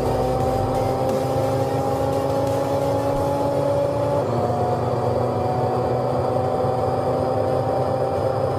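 High-performance car engine at full throttle, its pitch climbing slowly in a high gear. About four seconds in there is one upshift: the pitch drops, then starts climbing again.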